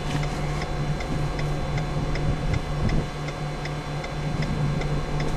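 Steady, evenly spaced ticking of a car's turn-signal flasher over a low, steady hum.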